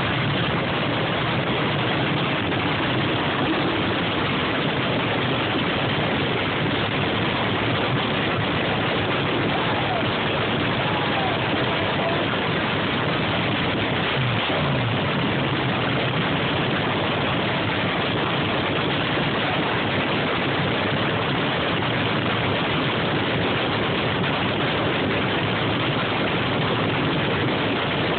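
Fuel-injected small-block engine of a front-engine dragster cackling at idle on a little nitro, loud and steady throughout.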